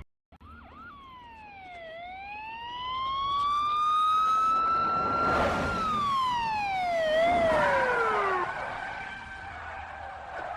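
Siren wailing: one long slow cycle in which the pitch dips, climbs for a few seconds, then slides back down and fades.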